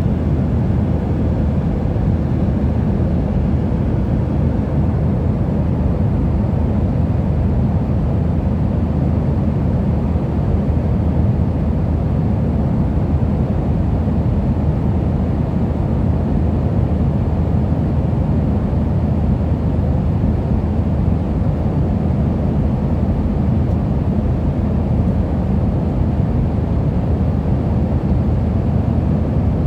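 Steady low rumble of an airliner cabin in flight: the engines and airflow heard from inside the plane, unchanging throughout.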